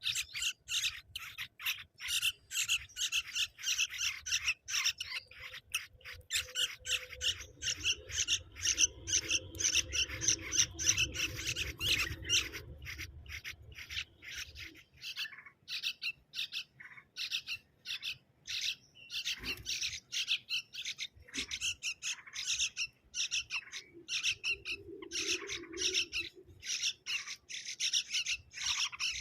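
Baby birds squawking, a rapid, near-continuous run of short high-pitched begging calls at feeding time. A low rubbing rumble sits under the calls for several seconds in the middle.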